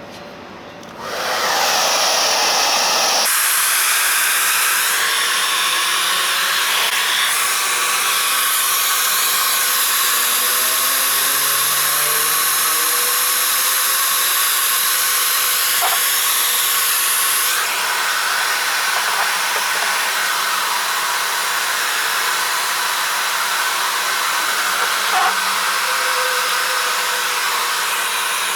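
Handheld hair dryer switched on about a second in, then blowing steadily to heat the car's plastic bumper and soften it so the dents can be pushed out.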